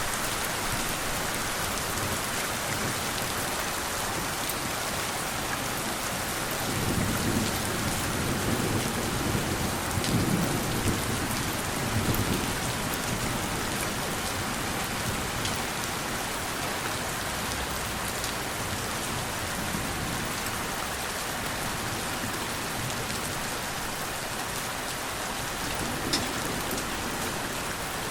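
Steady rain falling. A low roll of thunder rumbles beneath it from about seven to twelve seconds in, with a fainter rumble near the end.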